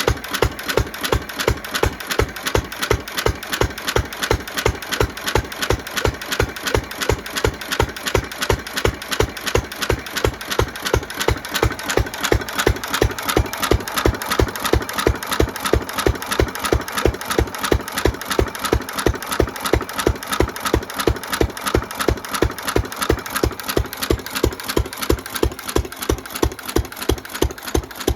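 1917 Fairbanks 3 HP throttle-governed single-cylinder stationary engine running steadily, firing at an even pace of about three beats a second. This is its first run on a newly fitted original carburetor, with fresh rings and valve train still breaking in.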